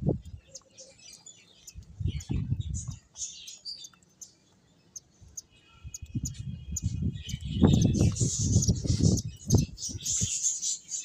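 Pet finches chirping with many short, high, rapid calls, with several bursts of low rumbling mixed in, loudest about eight seconds in.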